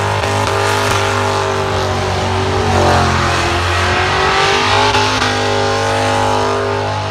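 Burnout car engine held at steady revs while the rear tyres spin and smoke, with a dip and climb back in revs about three seconds in.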